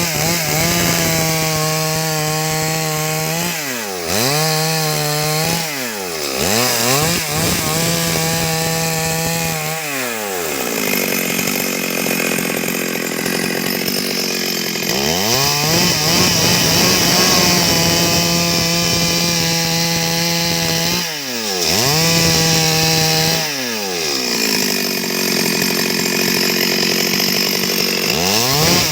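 Stihl 382 two-stroke chainsaw cutting wood. It is revved to a steady high full-throttle pitch several times, and the pitch drops sharply between each spell at full speed.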